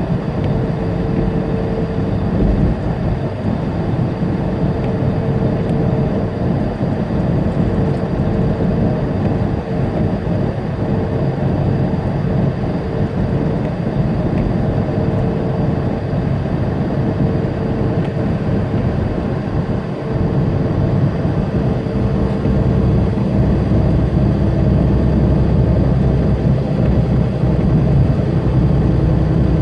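Semi truck's diesel engine and road noise heard from inside the cab, a steady drone while driving on the interstate. The low rumble grows stronger about two-thirds of the way through.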